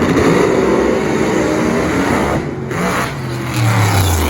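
Drag racing car engine running loud at high revs, its pitch sliding down over the first two seconds. After a short dip the engine note climbs again near the end.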